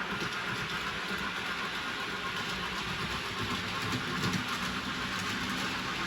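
Model train running steadily on layout track: a continuous motor whirr with faint clicking of wheels over the rails.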